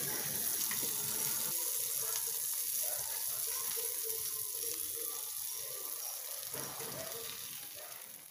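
Hamburger patties with melting mozzarella sizzling steadily on a hot griddle plate over an alcohol burner, the sizzle slowly fading near the end.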